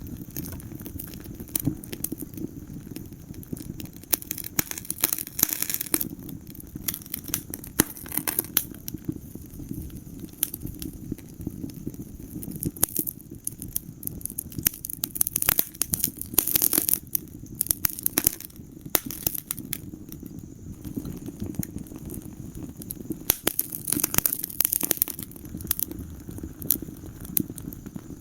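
Wood fire burning in a fireplace: a steady low rumble of flames under constant irregular crackling and popping, with denser flurries of crackles now and then.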